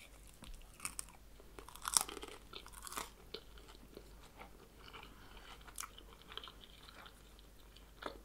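Close-miked mouth sounds of a person biting and chewing a chicken-and-vegetable spring roll. Crisp crunches come about one, two and three seconds in, the one at two seconds the loudest, followed by quieter chewing.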